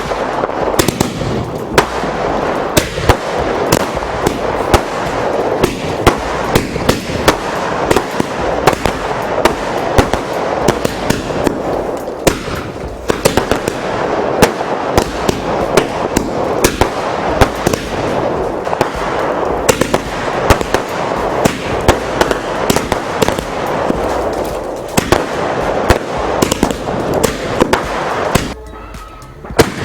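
Diwali firecrackers going off in a rapid, dense string of bangs and crackling that keeps up almost without a break, then dies away just before the end.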